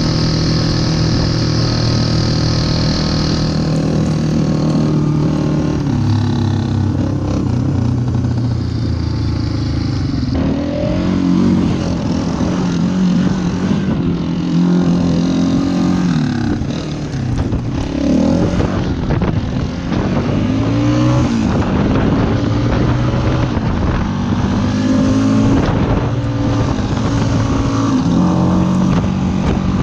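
Yamaha Wolverine ATV engine running while under way. The engine pitch holds steady for the first several seconds, then rises and falls over and over as the rider speeds up and eases off.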